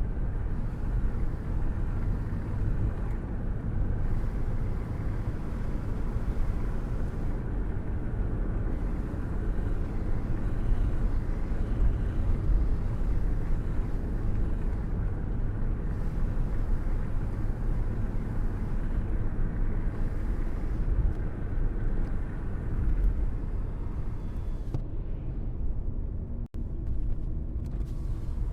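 Steady rain-and-thunderstorm ambience: a continuous dense wash of sound, heaviest in the low rumble, broken by a momentary dropout near the end.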